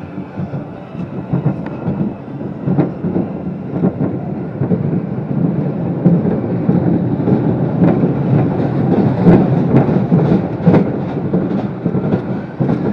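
Amusement ride car rattling and clattering along its track, with many irregular knocks over a steady rumble that grows louder after a few seconds.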